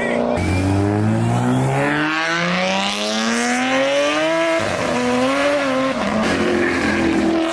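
A car engine accelerating hard, climbing steadily in pitch for about four seconds. Around the middle the pitch drops back, then it runs on at a lower, steadier pitch.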